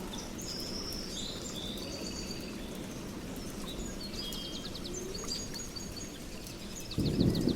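Steady rain with small birds chirping and trilling, short high repeated notes scattered throughout. A low rumble of thunder rises about seven seconds in.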